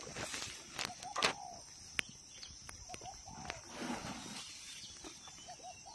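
Outdoor ambience with short rising-and-falling bird calls, several in quick pairs, over a steady high hiss, with a few sharp snaps.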